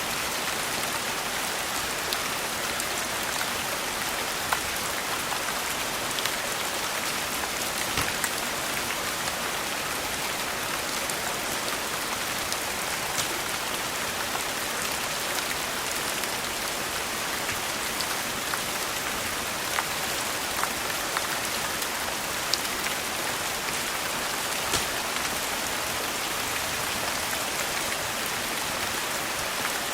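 Steady rain hissing, with scattered sharp pops and crackles from a wood fire in a fireplace rising above it every few seconds.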